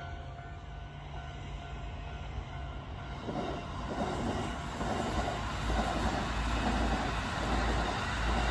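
Electric commuter train running past on the line. Its running noise swells about three seconds in and stays loud, with a deep rumble, as the cars go by.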